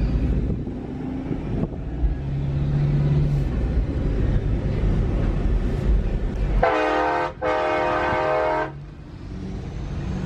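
Truck engines rumbling at low speed, with a loud horn made of several tones sounding twice, a short blast and then a longer one, about two-thirds of the way through.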